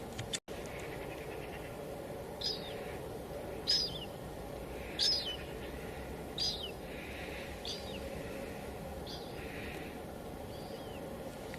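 Steady hiss of light drizzle falling on a window, with a bird giving short, falling chirps about once every second and a half. The sound drops out for an instant about half a second in.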